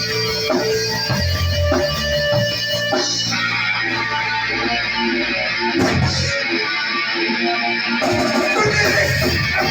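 Live band playing an instrumental passage, led by guitar, with no singing.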